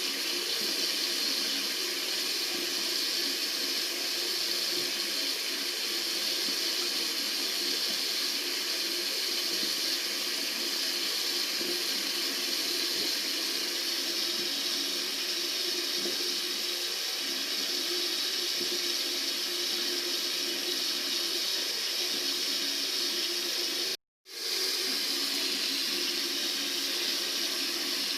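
Tap water running in a steady stream, with a split-second drop to silence near the end.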